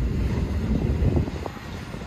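Train rumbling past, a deep uneven rumble with wind noise on the microphone.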